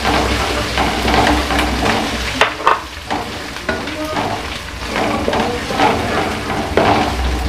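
Hot oil sizzling as browned onions, green chillies and ginger-garlic paste fry in a metal wok, with a wooden spatula stirring and scraping against the pan in irregular strokes.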